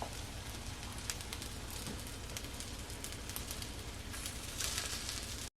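Wood fire burning in a fireplace: a steady hiss with frequent small crackles and pops, cutting off abruptly near the end.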